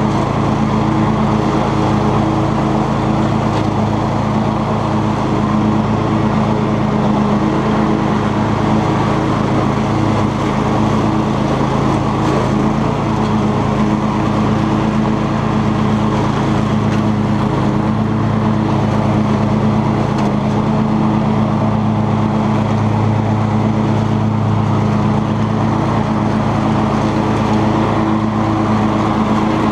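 Cub Cadet XT2 riding lawn tractor with a 42-inch mower deck, its engine running steadily under load while the deck cuts tall grass.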